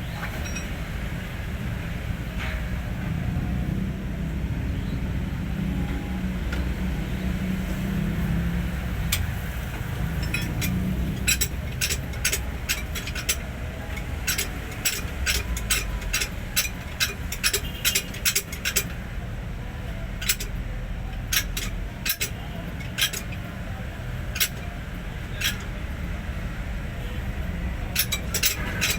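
Hino 500 truck's diesel engine running steadily at a low rumble, with irregular sharp metallic clinks from about a third of the way in.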